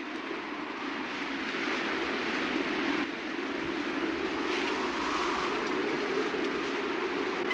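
Steady rushing wind, a sound effect that builds a little over the first couple of seconds and then holds.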